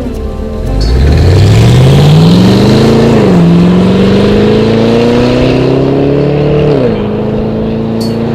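Car engine accelerating hard, its pitch climbing and dropping at an upshift about three seconds in, climbing again and dropping at a second upshift near seven seconds, then running steady.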